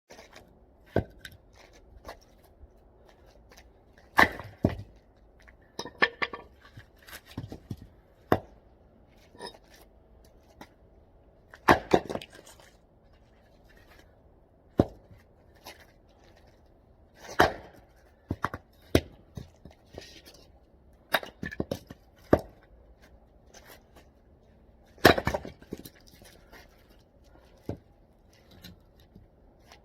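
A hatchet splitting oak firewood: sharp chopping strikes at an uneven pace, roughly one every one to three seconds, some single and some in quick pairs.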